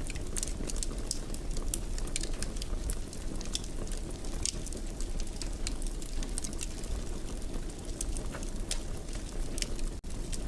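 Fire burning in a fireplace: a steady low rumble of flames with many small sharp crackles and pops at irregular moments. The sound drops out for an instant near the end.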